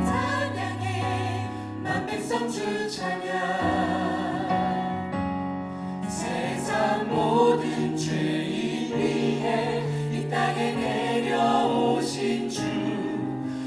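A church choir singing a Christmas worship song with a praise band accompanying, full and continuous, with percussion hits through it.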